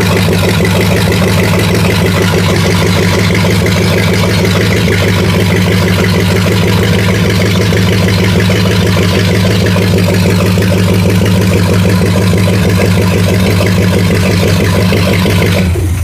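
Newly installed engine in a 1969 Chevelle running steadily on its first start, with no exhaust system fitted yet; the sound cuts off suddenly at the very end.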